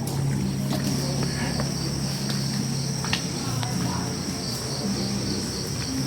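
A steady, high-pitched chorus of crickets or similar insects, with a low steady hum underneath and a few faint clicks.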